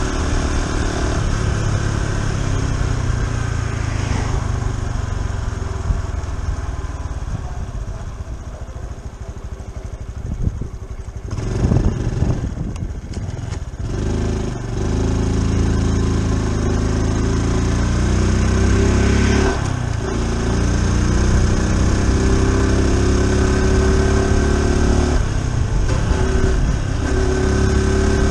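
Honda Super Cub C125's single-cylinder four-stroke engine heard from the rider's seat while riding, with wind noise. The engine note falls over the first ten seconds. After a few seconds of rough, uneven noise it climbs again, dipping briefly at a gear change about twenty seconds in and then rising once more.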